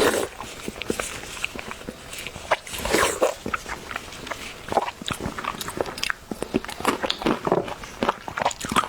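Close-miked eating: a person biting and chewing food with a quick, irregular run of wet smacking and clicking mouth sounds.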